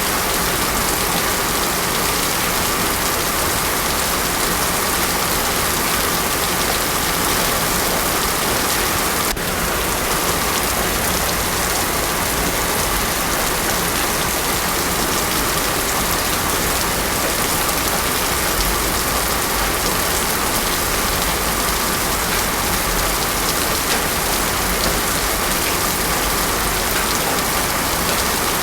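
Heavy rain falling steadily on a road surface, a dense, even hiss with no thunder.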